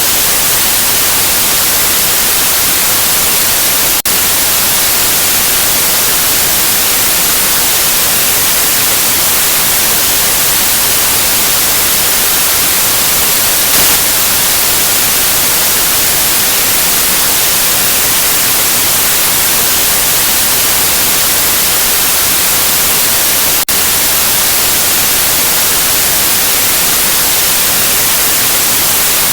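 Steady white noise, an even hiss with no pitch or rhythm, broken by two momentary dropouts, one about four seconds in and one near the end.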